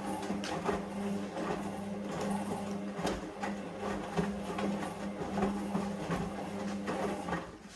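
Hoover Vision Dynamic washing machine's motor turning the drum during the wash, a steady hum with light clicks and knocks from the tumbling load; the motor stops about seven seconds in as the drum pauses between turns.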